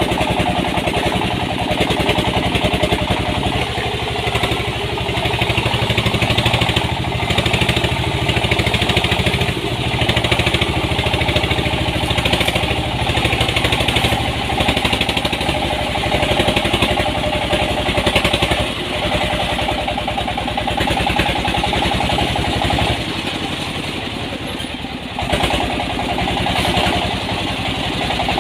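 Diesel engine of a home-built mini dump truck running steadily, with a fast even pulse. It drops away briefly near the end, then picks up again.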